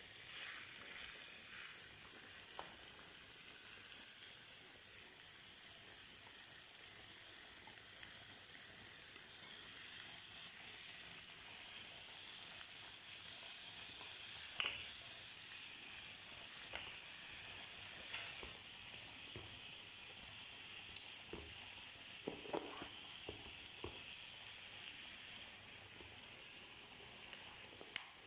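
Chicken thighs, potatoes and carrots frying in a stainless steel skillet on a gas hob, making a steady sizzle. A few sharp clicks stand out along the way.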